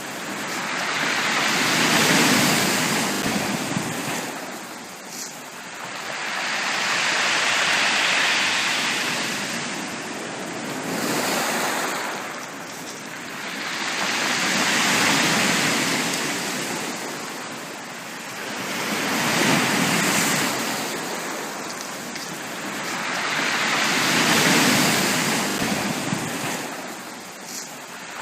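Ocean waves washing onto a beach, each wave swelling up and falling away, about five in a row at an even pace.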